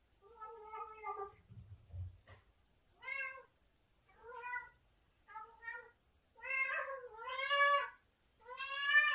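Domestic cat making a string of short meows while eating, voicing its relish of the food. Seven calls, louder and longer towards the end, with a soft low thump about two seconds in.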